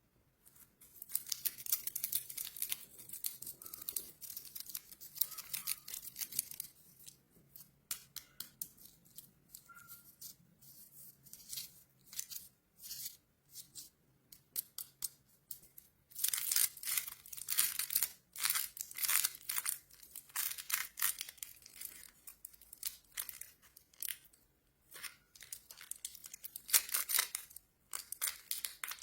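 Plastic candy wrappers being torn open and crinkled by hand, in uneven runs of crackling that are busiest about halfway through and again near the end.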